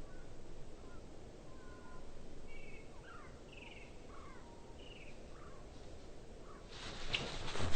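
Tūī song, a string of short chirps and gliding whistles, played back at half speed, then a loud rustling burst near the end.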